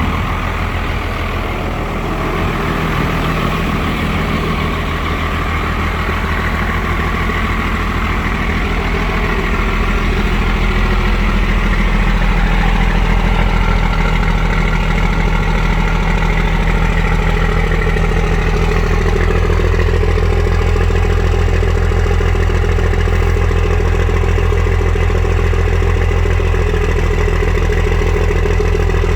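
12-valve Cummins diesel engine idling steadily shortly after a cold start, growing a little louder about a third of the way through and then holding even.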